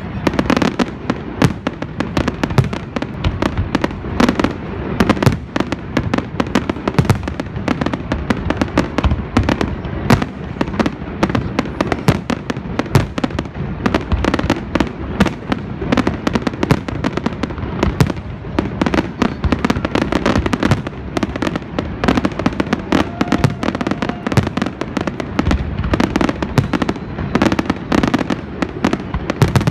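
Fireworks finale: a dense, continuous barrage of aerial shell bursts, many bangs a second overlapping with rumbling echoes.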